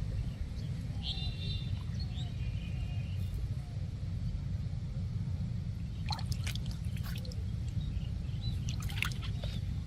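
Water trickling and sloshing over a steady low rumble, with a short high chirp about a second in and a few sharp splashy sounds around six to seven and nine seconds in.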